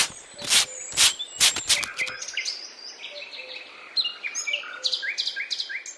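Birdsong: a busy run of short high chirps and brief whistles, some sliding in pitch. It follows a few loud short rushing sounds in the first two seconds.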